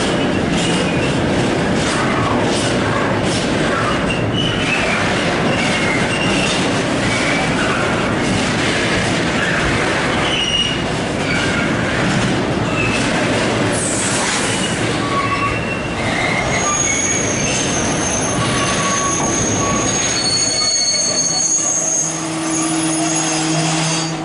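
Freight train of tank wagons rolling past close by: a steady rumble of wheels on rail, with short scattered wheel squeals that give way to long held squeals near the end.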